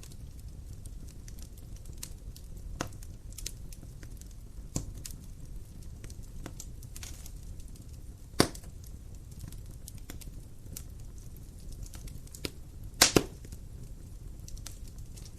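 Wood fire crackling in a fireplace: a low steady rumble of the flames under scattered small snaps, with a sharp pop about eight seconds in and a louder double pop near the end.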